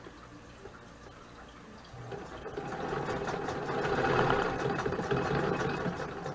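Vintage Singer sewing machine running and stitching. It starts about two seconds in, grows louder, and stops near the end.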